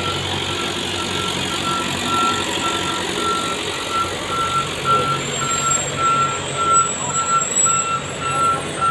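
Heavy transformer-hauling truck's diesel engine running under load, with a reversing alarm beeping steadily about two to three times a second.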